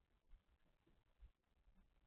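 Near silence, with faint low rumbling and two soft low thumps, one about a third of a second in and one past the middle.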